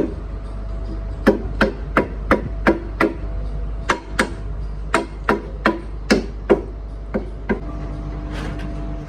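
Hammer blows, some fifteen sharp strikes in quick runs of two to six at about three a second, stopping about seven and a half seconds in, over a steady low hum.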